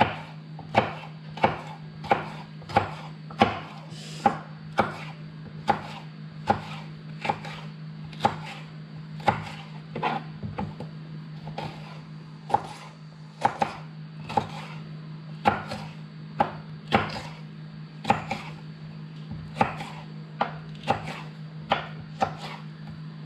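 Kitchen knife chopping greens on a cutting board: a long run of sharp, unhurried chops, about one to two a second, cutting the greens into fairly large pieces.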